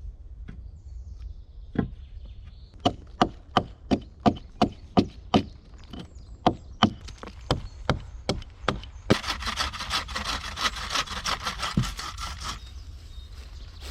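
Wood being chopped by hand: a run of about twenty sharp strikes, roughly three a second, then a few seconds of rough, rapid scraping on wood that stops abruptly.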